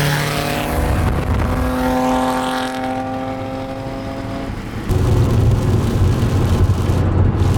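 Car engine under way: its note dips, climbs in pitch, then holds steady. About five seconds in, it switches abruptly to a loud, low road and wind rumble.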